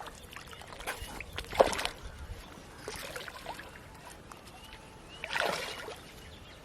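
Water splashing in a few separate bursts over a quiet background. The loudest is a sharp splash about one and a half seconds in, and a longer splash comes near the end.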